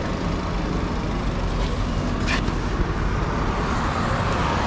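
Steady road traffic noise: vehicles running past on a highway with a continuous low rumble.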